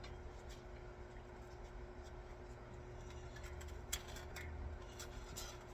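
Faint handling noises: light rubbing with a few small clicks, the sharpest about four seconds in, over a steady low hum.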